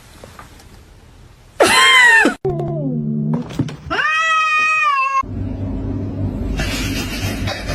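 Cats meowing: a loud short meow rising and falling about a second and a half in, a lower call sliding down in pitch, then a long drawn-out meow held steady. A low, noisy stretch without a clear pitch follows for the last few seconds.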